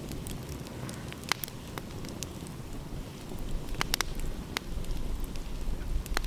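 Wood fire crackling with scattered sharp pops, the strongest about four seconds in, over a low rumble that swells in the second half.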